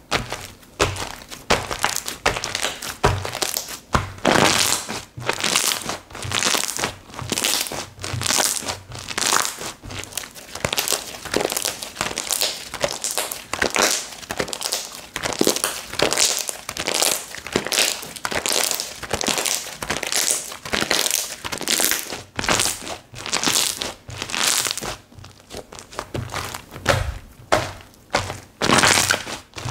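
Slime from Kokomo Slime being squeezed, stretched and poked by hand, making an irregular run of sticky pops, crackles and soft thunks, several a second.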